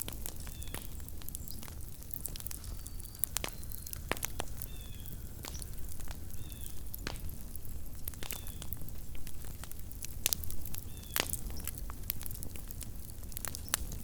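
Small wood campfire crackling, with irregular sharp pops and a cluster of louder pops about ten seconds in. Faint short high chirps recur every second or two.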